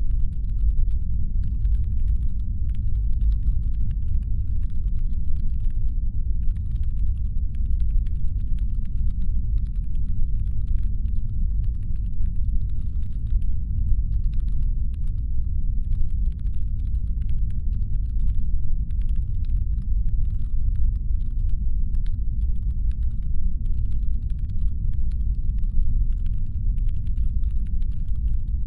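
Steady deep brown-noise rumble standing in for a spaceship's engine hum. Faint patches of rapid, light clicking come and go over it.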